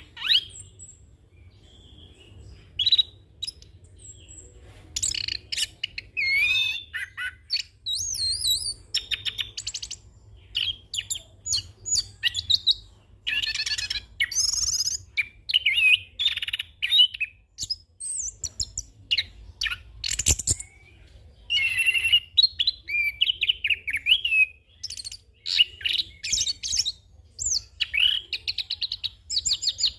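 Chestnut-capped thrush (anis kembang) singing a continuous, fast-changing song packed with mimicked phrases: rapid trills, whistles and chattering notes in quick succession with short pauses. A single sharp click comes near the middle, over a faint low hum.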